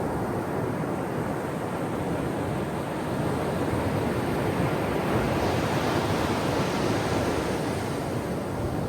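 Ocean surf breaking on a shore: a steady wash of waves, with the hiss swelling about five seconds in as a wave breaks and runs up.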